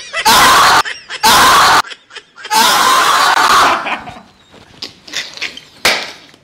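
Several men bursting into shrieking laughter: three loud shrieks in the first few seconds, then softer laughs and giggles that trail off.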